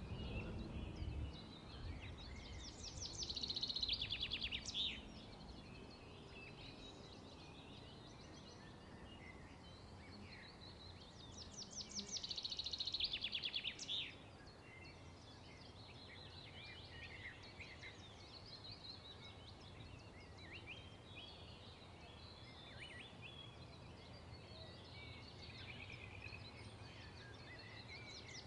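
Birds chirping, with a fast trill of repeated high notes lasting about two and a half seconds that comes twice: about three seconds in and again about twelve seconds in. Scattered short chirps fill the rest.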